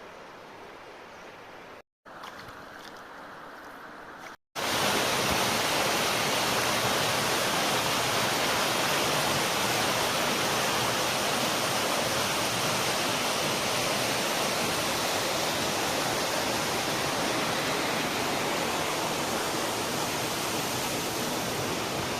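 Rushing water of a forest stream and waterfall, a steady noise with no rhythm. It is quieter at first, then after two short breaks about two and four and a half seconds in it becomes much louder and stays steady.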